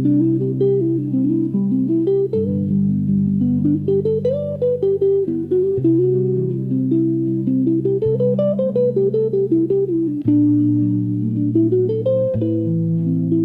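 Instrumental blues guitar playing a slow melody whose notes bend and glide in pitch, over bass notes that change every two or three seconds.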